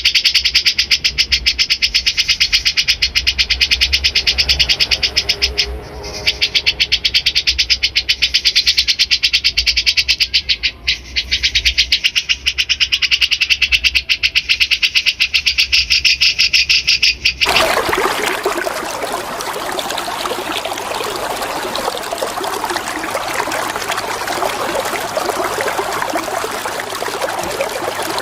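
Rapid, evenly pulsed high chattering trill of a bulbul, over a low hum. About two-thirds of the way through it cuts off abruptly and steady running water takes over.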